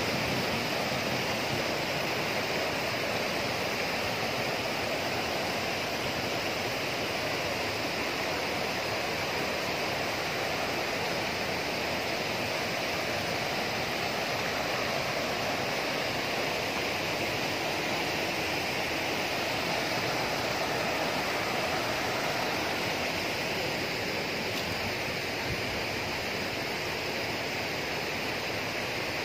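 Steady rush of running water, an even, unbroken hiss of a stream or cascade.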